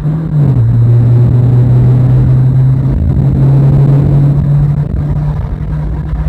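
VW Polo's aftermarket performance exhaust droning under load as the car pulls uphill, heard from inside the cabin. The low hum drops in pitch about half a second in, then climbs slowly as the revs build.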